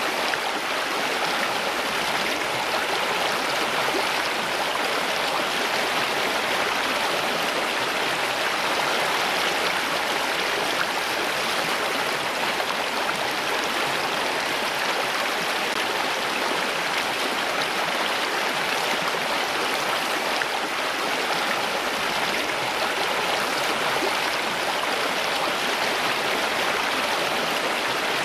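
Running water rushing steadily, like a stream, with no breaks or separate splashes.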